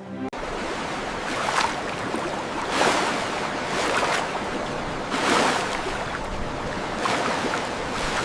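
Ocean waves washing and breaking in a steady surge, swelling about five times, starting abruptly.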